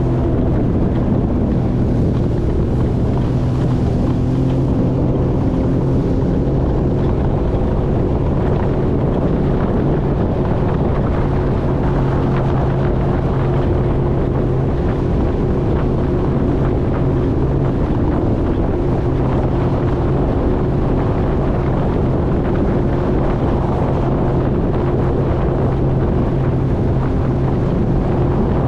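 Jet ski engine running steadily under way, with wind buffeting the microphone.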